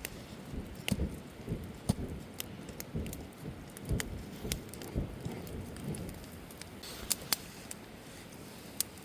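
Wood campfire crackling, with irregular sharp pops scattered through and a quick run of them near the end.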